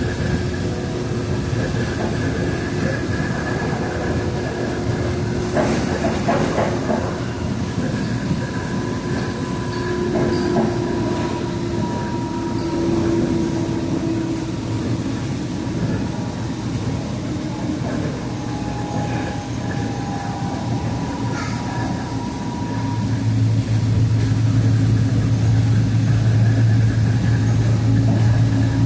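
Train running on rails, with wheel squeal heard as long steady high tones over the rumble. Near the end a low hum grows louder.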